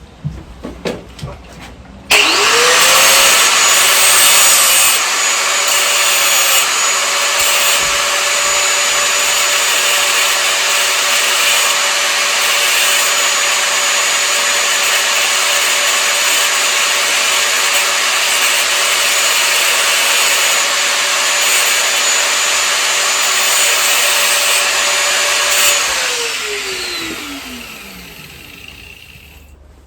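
An electric power tool's motor spins up sharply about two seconds in and runs at a steady high speed with a constant whine for over twenty seconds. Near the end it is switched off and winds down, its pitch falling as it slows.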